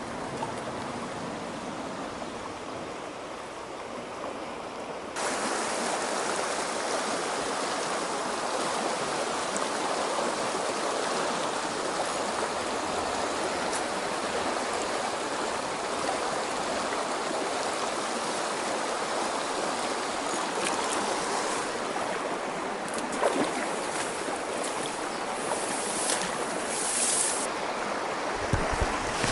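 Mountain stream water rushing steadily. About five seconds in it suddenly becomes louder and stays so, and a few short clicks and brief hissing sounds come near the end.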